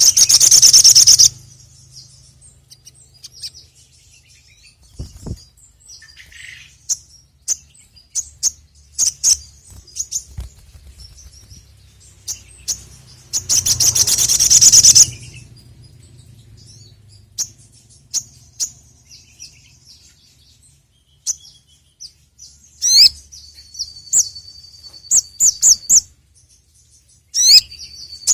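Sogon (sogok ontong, a sunbird) singing: scattered sharp, high chirps broken by long, loud, rapid high trills, one at the start and one about halfway, with a held high whistle and quick rising notes near the end.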